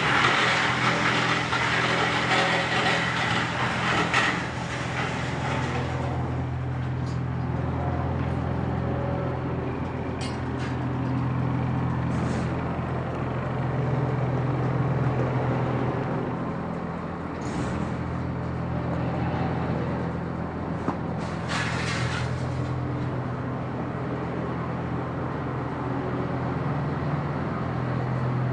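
Wood chipper running with a steady machine hum. It is loud and noisy for the first six seconds, as if it were chewing through wood, and there are short noisy bursts later, the longest about twenty-two seconds in.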